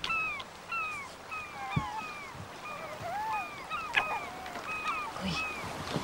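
A small animal making repeated short, squeaky mewing calls, several a second and overlapping, with a couple of soft low knocks.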